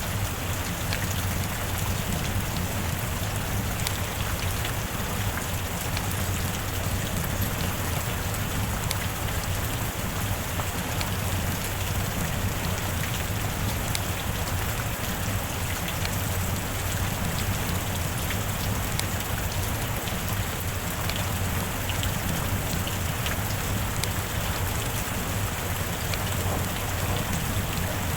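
Steady heavy rain falling without a break, with scattered individual drop ticks heard through the even hiss.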